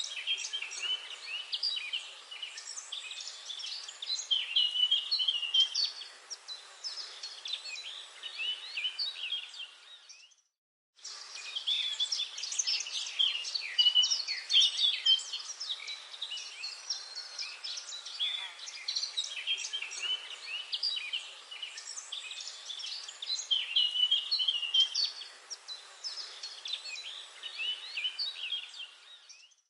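Dense chorus of many songbirds chirping and trilling over one another in a forest. The sound cuts out completely for about half a second around ten seconds in, then the chorus resumes.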